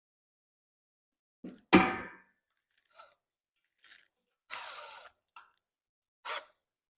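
Dead silence, then about two seconds in a loud knock of a tool or board, followed by a handful of short clunks and scrapes from work on the wooden reel platform, the longest lasting about half a second.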